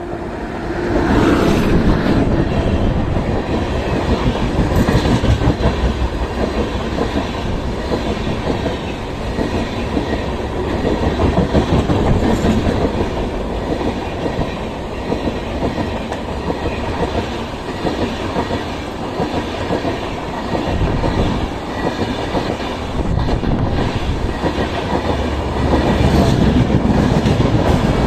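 Indian Railways express trains passing each other at speed, their coaches' wheels clattering steadily over the rail joints. The noise jumps up about a second in and stays loud.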